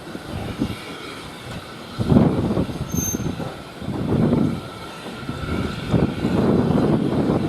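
Steam locomotive working, its exhaust puffing in loud, slow beats about once a second, starting about two seconds in.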